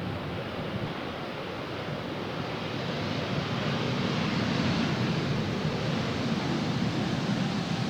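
Jet engine noise from a landing Embraer E190's turbofans: a steady rushing that swells about three seconds in and stays up, with wind on the microphone.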